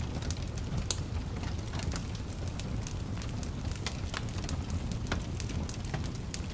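Fire crackling in a fireplace: irregular sharp crackles and pops over a steady low rumble of the flames.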